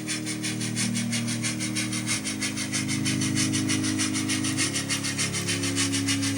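Sound decoder in an OO gauge model of the Liverpool & Manchester Railway locomotive Lion playing steam exhaust chuffs in a rapid, even beat over a steady low drone, which shifts in pitch a couple of times.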